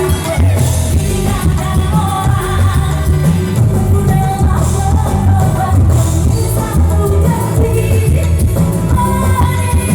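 Loud live dangdut band music with a woman singing over a steady, driving beat.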